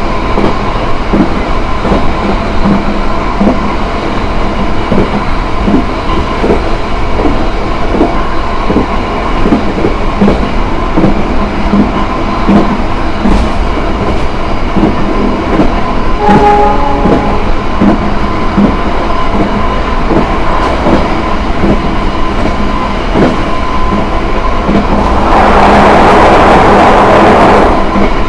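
Inside a passenger coach above the bogie, a train running at speed: a steady rumble with the rhythmic clickety-clack of the wheels over rail joints. A brief pitched tone sounds a little past halfway, and a louder rushing noise comes in for the last few seconds.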